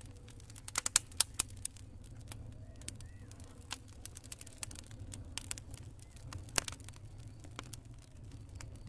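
Campfire crackling: irregular sharp pops and snaps of burning wood over a low steady rumble, the loudest pops about a second in and again near seven seconds.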